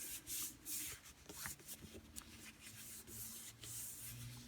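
Hands rubbing and pressing over a sheet of copy paper laid on cardstock and a wood-mounted rubber stamp, a faint, irregular paper-brushing sound, to press the ink evenly onto the card.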